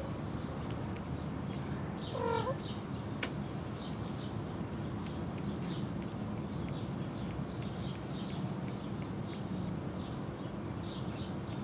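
Small birds chirping again and again over a steady low hum, with one short kitten mew about two seconds in.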